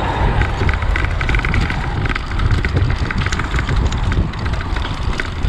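Wind buffeting the microphone while riding a bicycle: a strong, uneven low rumble, with many quick light ticks over it.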